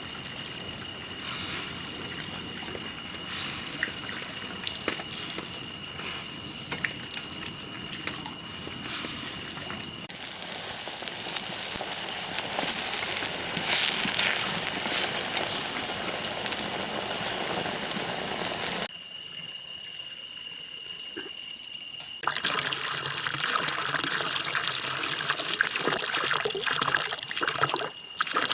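Running, splashing water, with a steady high whine under it in places. The sound changes abruptly a few times.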